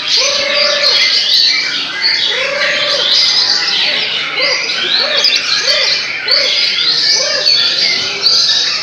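Many caged songbirds, chiefly murai (white-rumped shama), singing over each other in a dense chorus of high whistles and trills. A steady series of low, rounded cooing notes repeats under the chorus.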